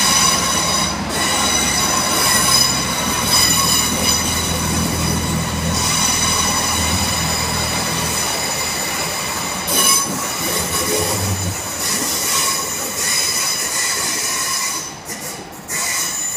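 Great Western Railway diesel multiple unit departing and running past close by, its wheels squealing with a steady high ring over the low hum of its underfloor diesel engine. The engine hum fades about nine seconds in as the train draws away, while the squeal carries on.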